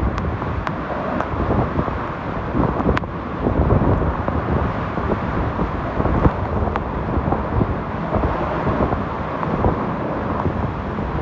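Hurricane-force wind gusting over the microphone: a loud, continuous rushing noise, with a few sharp ticks in the first three seconds.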